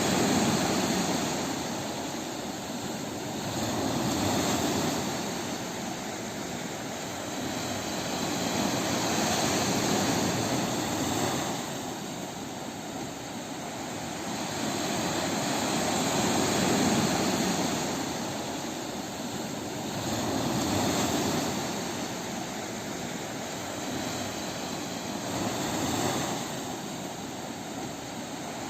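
Ocean waves breaking on a beach: a steady wash of surf that swells and falls back about every five seconds.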